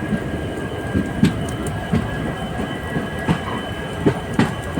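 ICF passenger coach running along the rails: a steady wheel rumble with irregular knocks, and a thin, steady high whine from the wheels.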